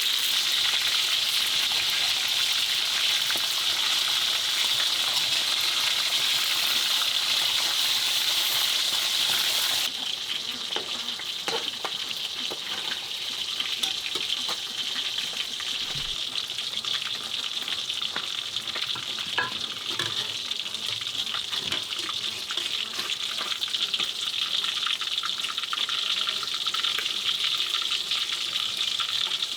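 Food sizzling and frying in a pan, a dense steady crackle that drops to a quieter level about a third of the way in, with occasional light knocks of stirring.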